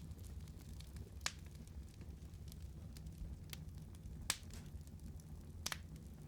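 Wood fire burning with a low steady rumble and scattered sharp crackles and pops, three of them louder than the rest.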